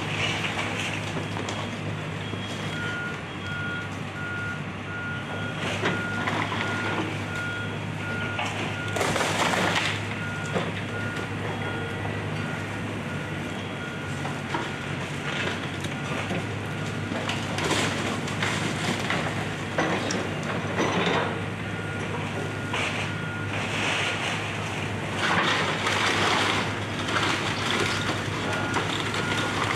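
Diesel heavy equipment running at a demolition site, its backup alarm beeping about every 0.7 seconds. Crunching and crashing of debris being broken up comes and goes over it, loudest about a third of the way in and again near the end.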